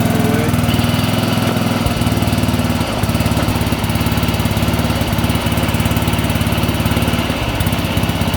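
Small tractor's engine running steadily just after its first start, its note shifting slightly about three seconds in.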